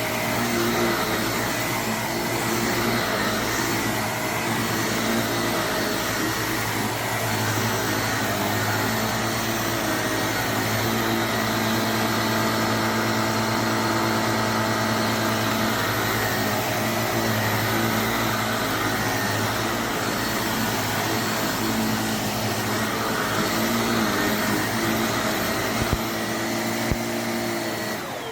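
Jimmy JV35 handheld mattress vacuum running steadily, its motor whine wavering slightly in pitch. A couple of clicks come near the end, then the motor starts to wind down as it is switched off.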